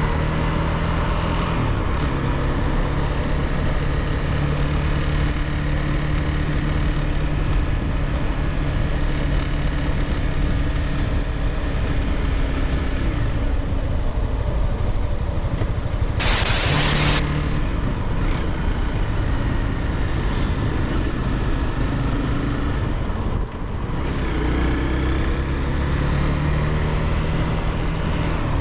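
Honda CBR300R's single-cylinder engine running steadily as the motorcycle rides, its note shifting now and then. About halfway through there is a loud burst of rushing noise lasting about a second, and later the engine note drops briefly before picking up again.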